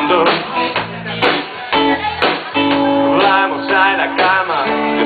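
Band music led by strummed guitar chords, playing an instrumental passage of a rock song.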